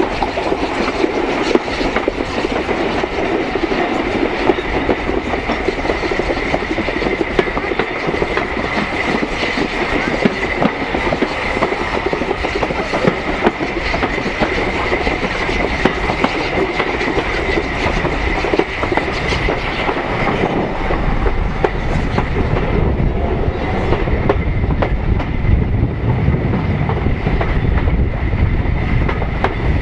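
Preserved railway coaches running along the track, heard from an open carriage window: a steady rush of running noise with wheels clicking over the rail joints and a thin high whine above it. The rumble grows heavier and lower in the last third.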